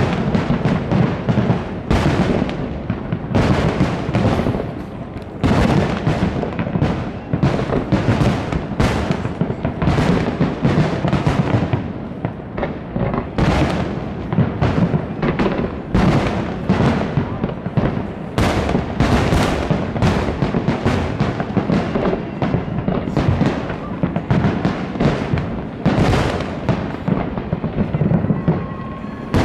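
Aerial fireworks bursting in rapid succession: a continuous barrage of sharp bangs, several a second, thinning only briefly now and then.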